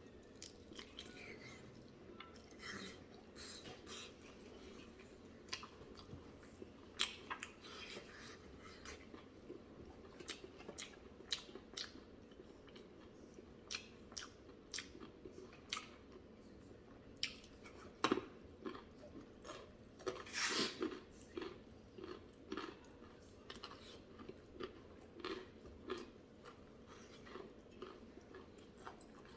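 A person chewing and eating buffalo leg soup with rice close to the microphone: many short, wet mouth clicks and smacks, with one louder, longer one about twenty seconds in.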